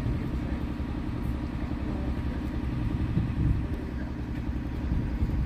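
Passenger coaches of a steam-hauled train rolling past on the rails: a steady low rumble of wheels on track.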